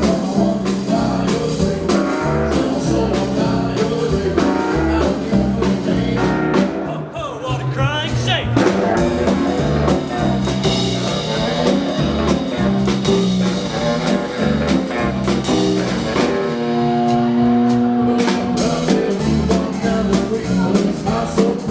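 A live band playing blues-style music with drum kit, guitar and a singing voice; a long held note rings out near the end.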